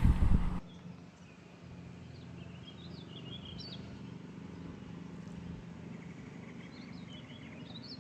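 Wind buffeting the microphone for a moment, then cut off abruptly; after it a quiet outdoor background with a faint steady low hum and small songbirds twittering in two short spells, about three seconds in and again near the end.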